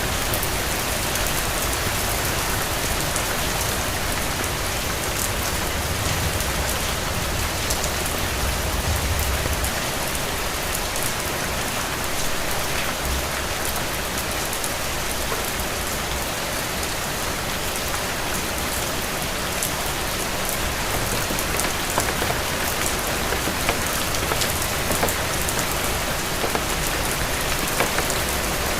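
Steady rain falling on hard surfaces: an even, dense hiss with many scattered sharper drop ticks.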